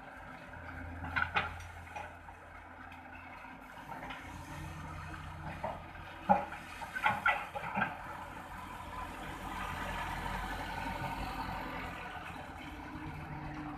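Heavy engine idling low and steady, with scattered knocks and clanks and a rushing noise that swells around the middle.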